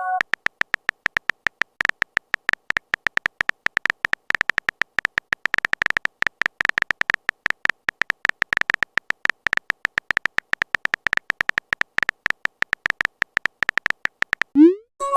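Rapid, uneven string of short, same-pitched electronic clicks, several a second: a phone-keyboard typing sound effect, one click per keystroke as a chat message is typed out.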